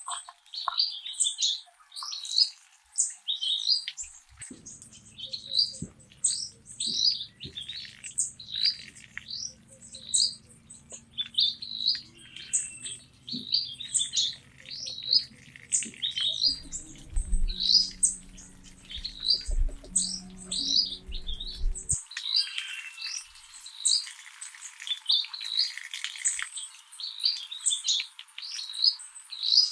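Birds chirping in quick repeated short high notes, several a second, with a low hum and rumble underneath through the middle stretch.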